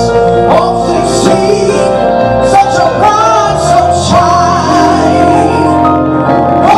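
Live gospel music: singing voices with keyboard and bass accompaniment, at a steady loud level.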